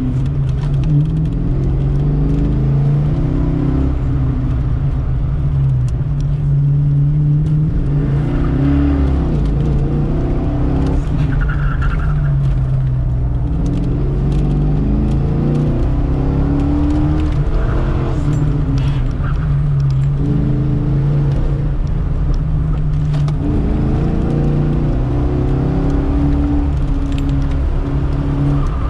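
1990 Fox-body Mustang's 5.0 V8 engine driven hard through an autocross course, heard from inside the cabin, its revs rising and falling again and again with throttle and shifts.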